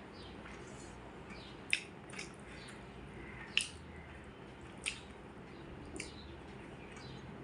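Close-up eating sounds: wet, squishy chewing of rice and fish curry, with four sharper mouth smacks spread through.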